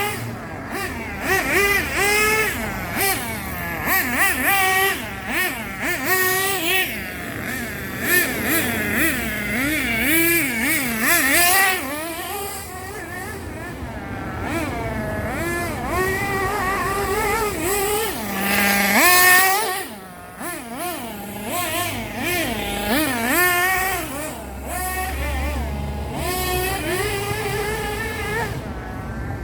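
Small glow-fuel nitro race engine in an RC buggy, running and revving hard. Its whine rises and falls over and over as the car is driven, with one brief dip in loudness about two-thirds of the way through.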